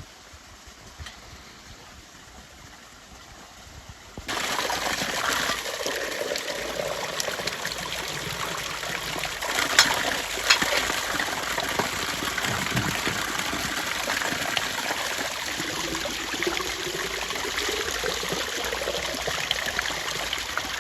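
Water pouring steadily into a pot, starting suddenly about four seconds in, with a tone that rises in pitch near the end.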